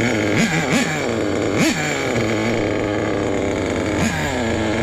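Nitro RC truck engine running at a fast idle, with four short throttle blips that rise and fall in pitch. The owner takes its poor running for fuel starvation from dirt in the engine.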